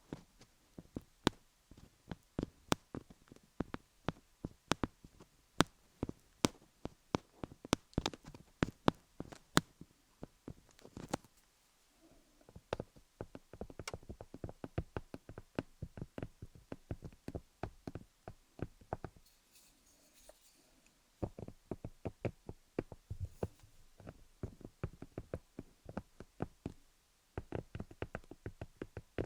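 Colored pencils tapping on a rhinestone-covered dummy-head microphone: quick, irregular sharp clicks, sometimes in rapid runs, with a couple of brief lulls.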